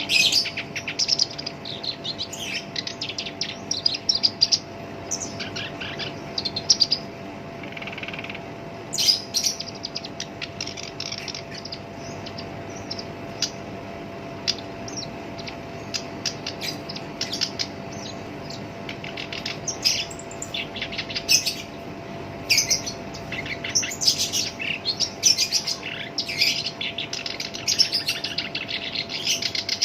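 Black-browed reed warbler singing a rough, rapid chattering song in bursts, sparser in the middle and busier again toward the end. A faint steady hum lies underneath.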